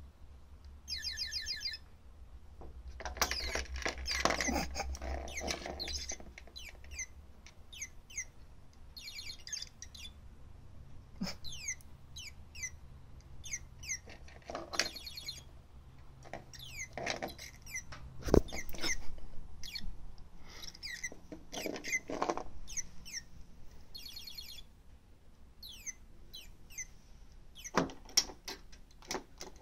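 Motion-activated toy bird giving electronic chirps in repeated short bouts of quick sweeping tweets, set off again and again by movement near it. Louder rustling and bumps come between the bouts.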